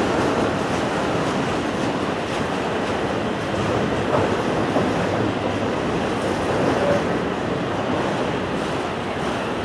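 Freight train cars rolling past on the rails: a steady, even rumble of wheels and railcars.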